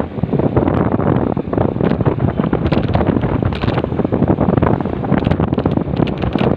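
Loud, uneven wind buffeting on the microphone of a moving motorcycle.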